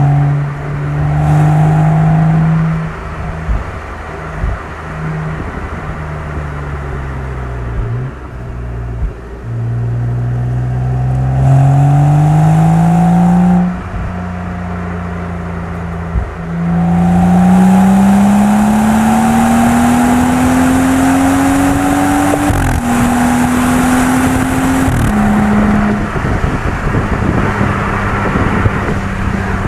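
BMW M135i's turbocharged inline-six with its exhaust, driven hard. Off the throttle it gives a few sharp pops, then it makes two rising pulls under acceleration. The second pull is cut by two upshifts, each a sudden drop in pitch, before the engine settles into a steady drone.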